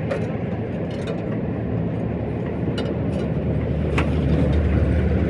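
A motor vehicle engine running with a low, steady hum that grows louder toward the end, with a few light metallic ticks and one sharp click about four seconds in.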